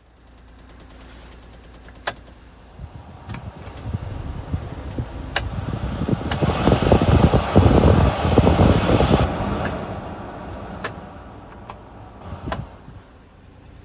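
A Honda Acty kei truck's small engine running, swelling to its loudest for a few seconds near the middle, then easing back. A few sharp clicks sit over it.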